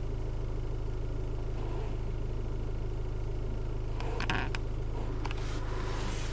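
Land Rover Discovery Sport 2.0 TD4 four-cylinder diesel engine idling steadily as a low hum, heard from inside the cabin. A few faint clicks come about four and five seconds in.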